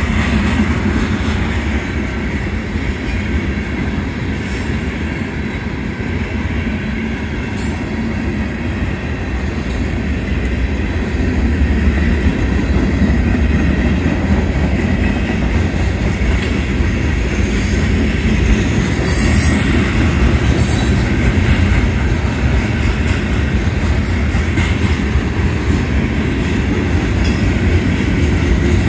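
Cars of a Union Pacific manifest freight train rolling past at close range: a steady, loud noise of steel wheels on rail, with a few sharp clicks scattered through, getting a little louder about twelve seconds in.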